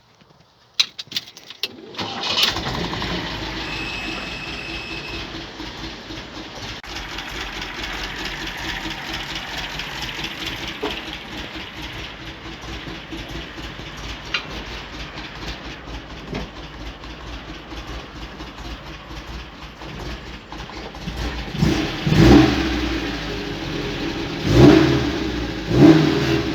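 MGB GT's engine starting about two seconds in after a few clicks, then running steadily; near the end it surges louder three times.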